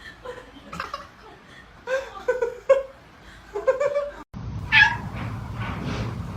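Cats meowing: several short meows in the first four seconds, then, after a brief dropout, a louder, higher meow over a steady low hum, followed by a fainter one.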